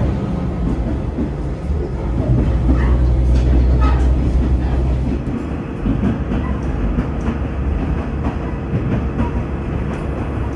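Noto Railway diesel railcar running on the line: a steady low drone of engine and wheels on rail, its hum swelling for a few seconds about two seconds in.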